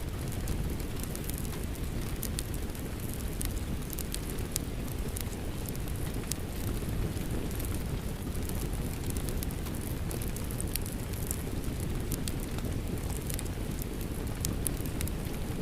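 Rain falling steadily, mixed with a wood fire crackling: a constant low rumble of rain under many irregular sharp pops and snaps.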